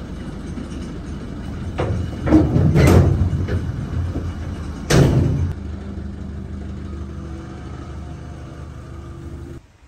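A delivery truck's engine running, with several loud clanks and thuds about two to three seconds in and again around five seconds, then a steady engine hum; the truck has just dumped its load of firewood logs.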